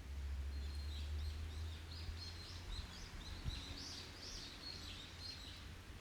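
Forest songbirds chirping in a rapid string of short, high notes. Under it, a low rumble in the first couple of seconds.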